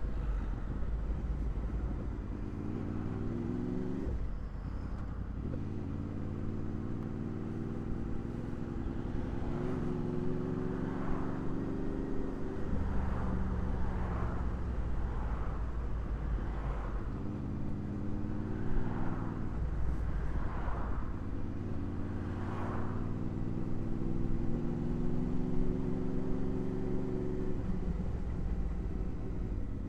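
Honda VFR800's V4 engine pulling under throttle, its pitch climbing and then dropping back sharply several times, as at upshifts. Through the middle there is a row of short whooshes about a second apart.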